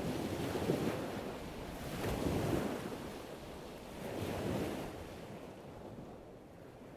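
Ocean waves washing in, swelling and receding about every two seconds, gradually fading out.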